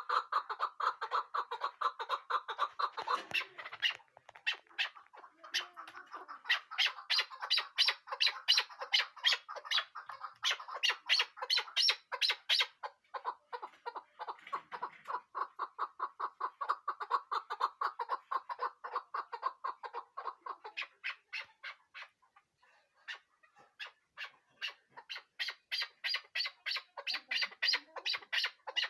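Chukar partridge calling: long runs of rapid, repeated chuck notes, several a second. The calling breaks off for about two seconds a little after 21 s, then starts again.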